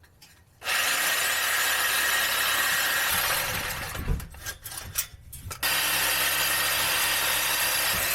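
A power tool cutting through a steel exhaust pipe, starting about two-thirds of a second in, breaking off for about two seconds with a few knocks, then cutting again.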